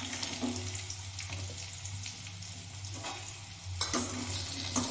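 Sliced potatoes sizzling in hot oil in a steel kadhai, with a steel spatula scraping and clinking against the pan every second or so as they are stirred.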